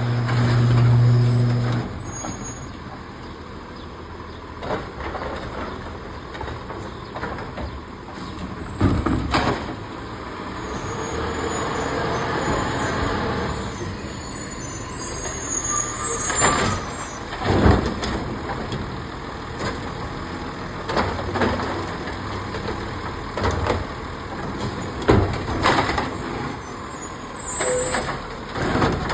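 Garbage truck working at the curb: engine running and hydraulics moving, with several sharp clanks and bangs as a trash can is grabbed, dumped and set down. A steady low hum cuts off about two seconds in.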